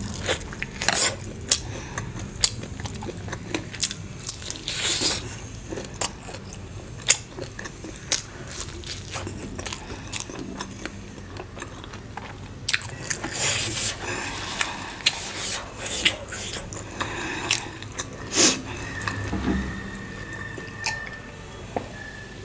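Close-miked eating sounds: chewing and biting food, with scattered sharp clicks and clinks of cutlery and dishes.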